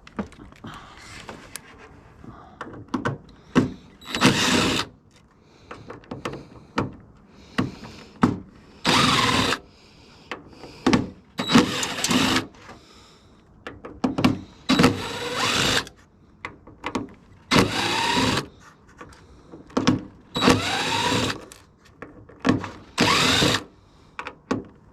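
Power drill backing out screws in a series of short runs, about nine in all, each rising in pitch as the motor spins up, with clicks and clatter of handling between runs.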